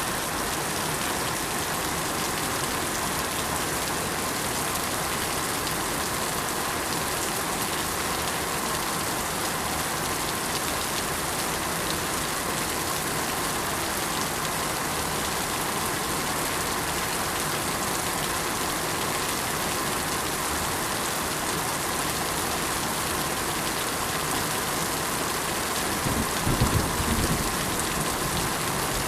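Steady, heavy rain falling and pattering on surfaces, an even hiss with no let-up. Near the end comes a brief low rumble.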